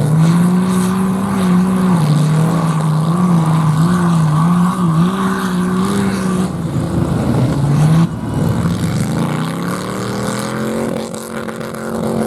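Off-road vehicle engine held at high revs, its pitch wavering up and down. About eight seconds in it drops off suddenly, then it climbs steadily again as the engine revs back up.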